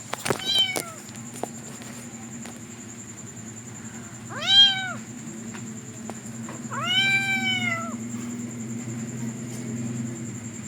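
A kitten meowing three times: a short call at the start, the loudest about four and a half seconds in, and a longer one about seven seconds in. A steady low hum runs underneath.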